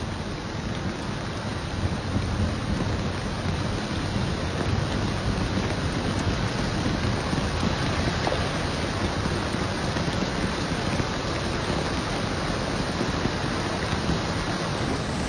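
Steady heavy rain pouring down, a dense even hiss with a low rumble underneath.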